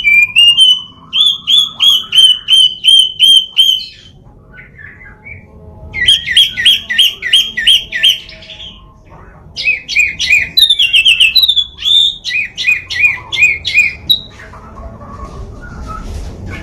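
Chinese hwamei singing: three loud runs of repeated, clear whistled notes, each note a quick up-and-down slur, about three a second, with short pauses between runs.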